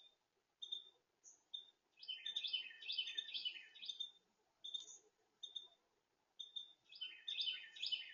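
Small songbirds calling: short, high chip notes repeated every second or so, with two longer bursts of rapid twittering song, one about two seconds in and another about seven seconds in.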